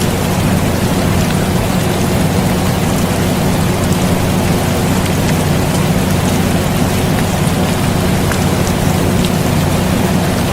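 Air conditioner running with a steady hum, mixed with steady rain falling on a surface.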